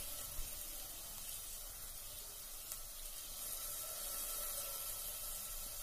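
Bitter gourd pieces frying in a pan covered with a steel plate: a faint, steady sizzle, with a couple of light ticks.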